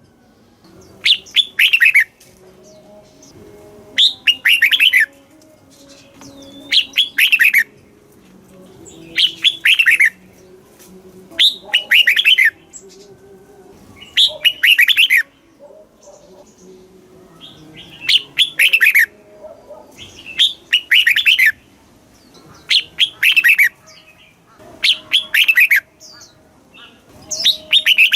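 Red-whiskered bulbul singing short, loud, warbling phrases of quick down-slurred notes, repeating about every two seconds.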